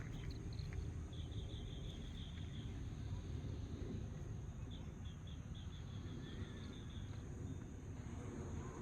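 An animal's high trilling call: two runs of quick, even pulses at one pitch, about seven a second, the first near the start and the second past the middle, over a steady low rumble.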